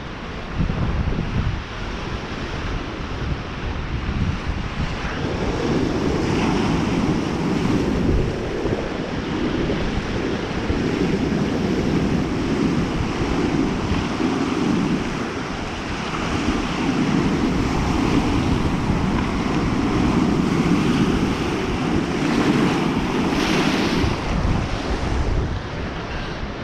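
Waves rushing on a shore, with wind gusting against the microphone in an uneven low rumble.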